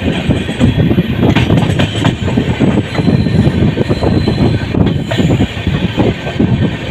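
Passenger train running at speed, heard from on board: a steady loud rumble with the rattle and knocking of the coach wheels on the rails.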